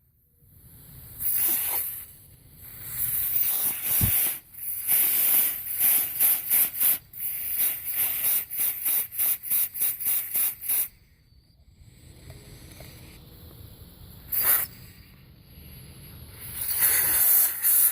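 Compressed air hissing in bursts from an air blow gun, blown through the EVAP system's valve and charcoal canister to check flow and clear them: a few longer blasts, then a fast run of short puffs, about three or four a second, and another blast near the end.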